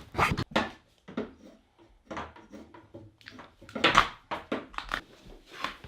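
Irregular scraping, rubbing and knocking on the plastic deck of a fishing kayak as the surface is worked over by hand, wiped down after the old pads are pulled off. The loudest knock comes about four seconds in.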